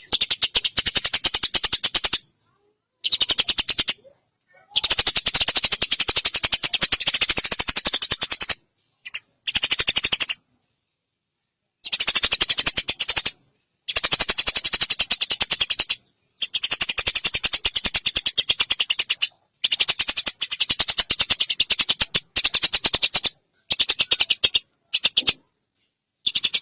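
Eurasian tree sparrows giving harsh, very rapid chattering calls in bursts of one to four seconds, broken by short silences: the agitated chatter of sparrows fighting.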